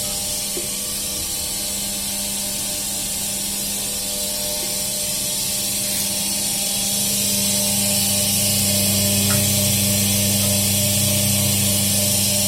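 Cold-press oil machine for candlenuts running steadily: a constant motor hum with a hiss over it. A deeper hum joins about eight seconds in and the sound grows a little louder.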